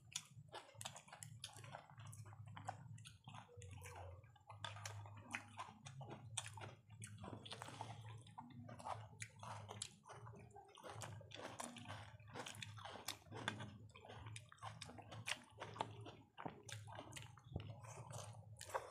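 Close-miked chewing and mouth sounds of people eating biryani rice, chicken and boiled egg with their hands: a run of irregular wet clicks and smacks over a steady low hum.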